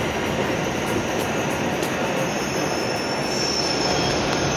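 W7 series Shinkansen train rolling slowly alongside the platform as it comes to a stop, a steady rumbling noise. About halfway through, a thin high squeal comes in over it.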